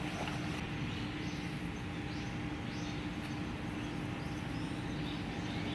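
Outdoor ambience: a steady low hum and rumble, with short high chirps repeating every half second or so.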